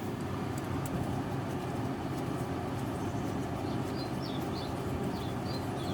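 Steady low outdoor background rumble with a few faint, short, high bird chirps in the second half.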